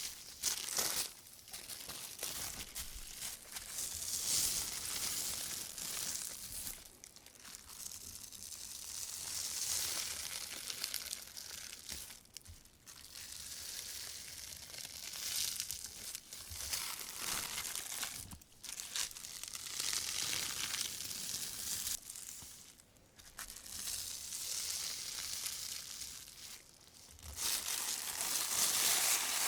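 Rubber-gloved hands rustling and crinkling a thin white plastic shopping bag. The crackling comes in swells of a few seconds, with brief pauses between them.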